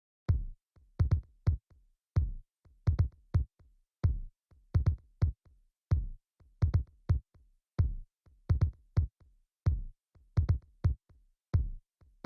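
Drum-machine beat playing alone after a moment of silence: deep, booming kick-drum hits with short crisp hi-hat ticks on top, in a repeating pattern of about two seconds. It starts about a third of a second in, with no melody or vocals over it.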